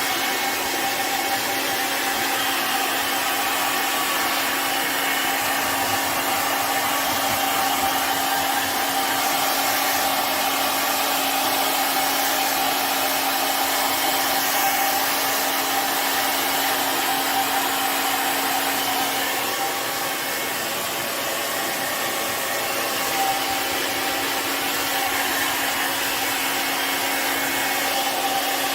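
Handheld hair dryer running steadily, blowing air with an even motor hum.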